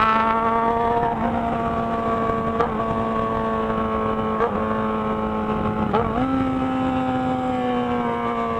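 Yamaha XJ6 motorcycle's inline-four engine running at steady, moderate revs while riding downhill slowly, with a few brief dips in the engine note and its pitch sinking gradually near the end.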